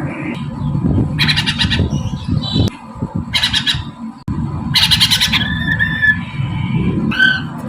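Masked laughingthrush (poksay Mandarin) giving three harsh, rasping squawks about two seconds apart, followed by short clear whistled notes.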